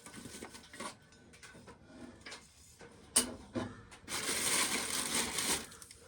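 Dry shelled corn being handled during hand shelling: a few scattered knocks, then a rattling rush of kernels lasting about a second and a half.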